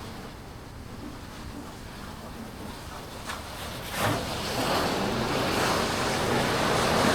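Rough sea waves breaking with strong wind buffeting the microphone; the rush surges up sharply about four seconds in and keeps building.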